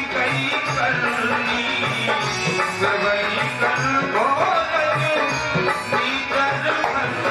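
Indian devotional music: a tabla keeps a steady rhythm of low strokes under a winding melodic line.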